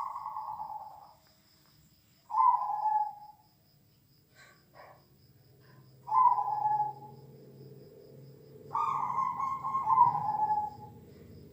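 Zebra dove (perkutut) cooing in short, falling phrases: one at the start, one about two and a half seconds in, one about six seconds in, and a longer run of coos about nine seconds in.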